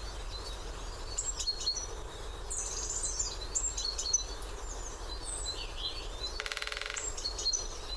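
Wild songbirds chirping and whistling in short repeated calls, with a brief, very fast, even rattle of about half a second near the end.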